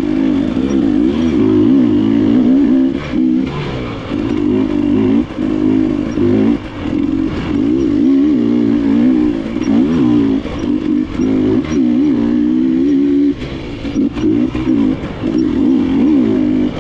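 KTM enduro dirt bike engine being ridden along a trail, its revs rising and falling constantly as the throttle is worked on and off, with brief throttle chops and a few knocks from the bike.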